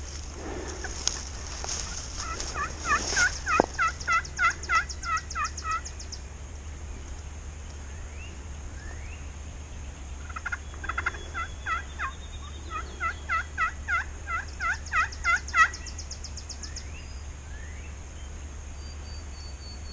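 A hunter's turkey call sounding two long series of yelps at about three notes a second, imitating a hen turkey to call a gobbler in; the first series runs about 2 to 6 seconds in, the second from about 10 to 16 seconds.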